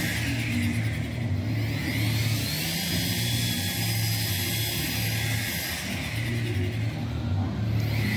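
A car engine running steadily: a low, even hum with a hiss of street noise over it.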